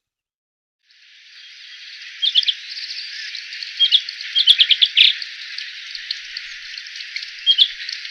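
Wild birds chirping in quick clusters of short, sharp notes, three or four bursts over a steady high hiss that fades in after a second of silence.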